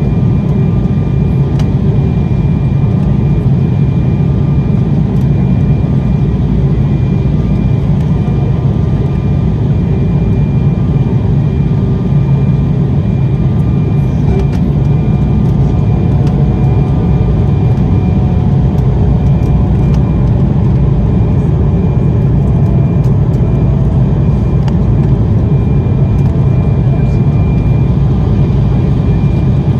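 Steady in-flight cabin noise of an Embraer ERJ-190 airliner: a loud, even low rumble of airflow and its GE CF34-10E turbofan engines, with a constant high engine whine on top.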